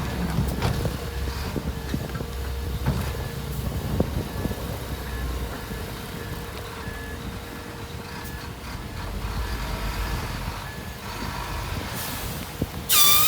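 Heavy earthmoving vehicle's reversing alarm beeping over and over above the low running of its diesel engine. Near the end comes a short, loud horn toot.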